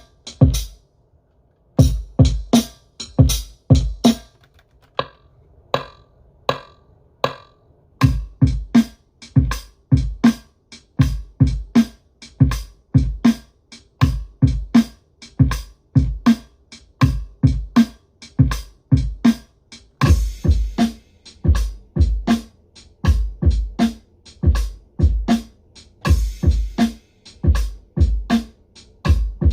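Akai MPC 500 playing a swung boom-bap drum loop of hi-hats, snare and kick, with the kick played in by hand with timing correct off so it is not quantized. The pattern is sparse at first, with a short break, and fills out into a steady, full beat from about eight seconds in.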